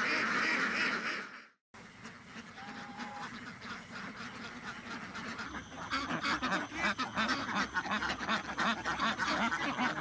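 A large flock of domestic ducks quacking in a dense, overlapping chatter. The sound drops out briefly about a second and a half in, comes back quieter, and grows denser and louder from about six seconds on.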